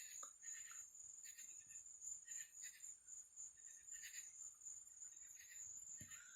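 Faint crickets chirping at night in short high-pitched pulses, about two a second, over a steady high-pitched whine.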